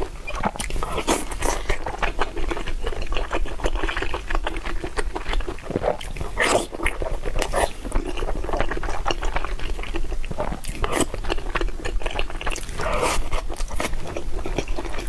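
Close-miked eating of spicy noodles: a quick, irregular run of wet chewing, biting and slurping sounds.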